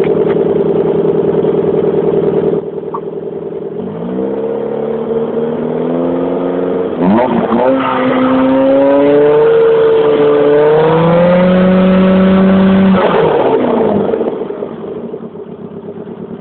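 1993 Vauxhall Corsa's petrol engine running steadily, then revved up from about four seconds in. The revs climb for a few seconds, are held high, not far off the red line, and drop back to idle a little before the end.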